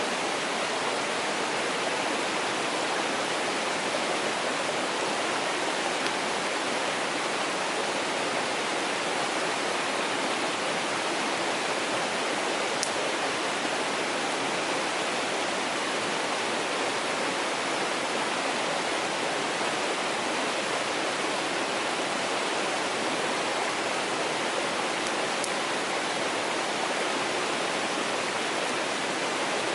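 Mountain stream rushing steadily over rocks, an even unbroken water noise. One sharp tick shows about halfway through.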